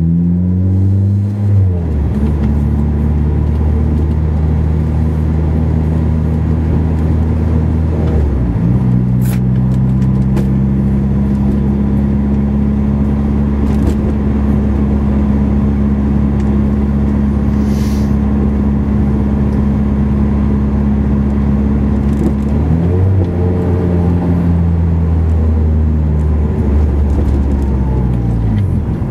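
Honda S2000's four-cylinder engine, supercharged by a Roots blower at 8 psi and breathing through a 3-inch dual exhaust, pulling the car along at mostly steady revs. Its pitch drops and settles at a new level a few times: about two seconds in, about a third of the way through, and near the end.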